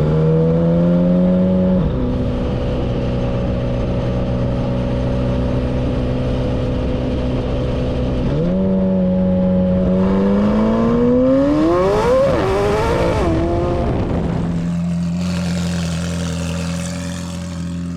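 High-performance car engine accelerating through the gears. Its pitch drops at a shift about two seconds in and holds steady. It climbs again from about eight seconds to a peak around twelve, wavers, then settles into a lower steady note near the end.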